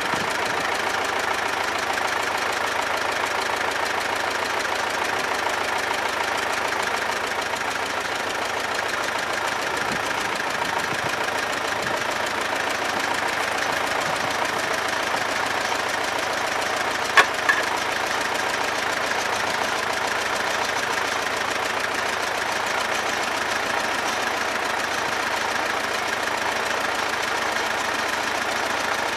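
T-25 tractor's air-cooled two-cylinder diesel engine running steadily at idle. A single sharp click sounds about seventeen seconds in.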